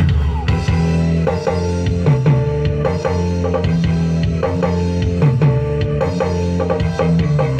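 Music with drums, a steady beat and plucked strings, played through an ACR 15600 loudspeaker in a miniscoop box during a sound check, with heavy bass.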